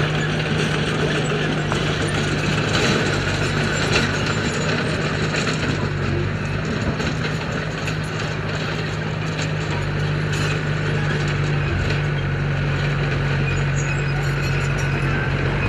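Heavy construction machine's diesel engine running steadily under work, with scattered clicks and metallic rattling from the machine.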